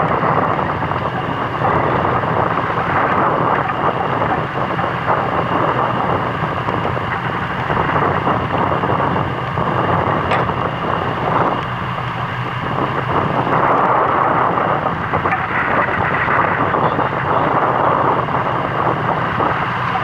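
Fishing boat's engine running steadily under loud wind on the microphone and the rush of sea water around the hull.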